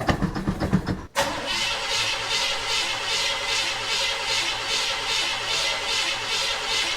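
Starter cranking the Impala's 350 small-block V8 on a cold start after a month of sitting, the engine not yet catching; about a second in it cuts off abruptly to background electronic music with a steady beat.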